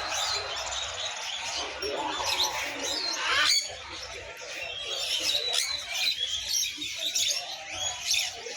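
Many caged songbirds chirping and twittering at once, a dense chorus of short, high, overlapping calls that thins a little about halfway through.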